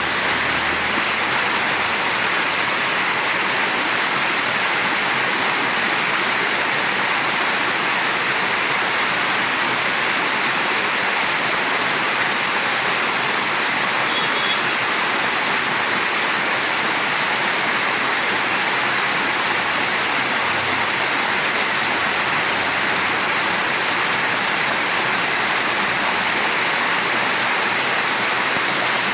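Mountain stream rushing: a steady, unbroken hiss of flowing water with no change in level.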